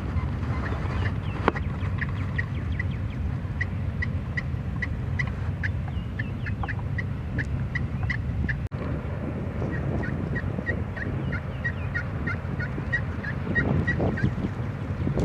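Turkey yelping: a long run of short, evenly spaced yelps, about four or five a second, broken off briefly in the middle and then resumed, over a steady low rumble.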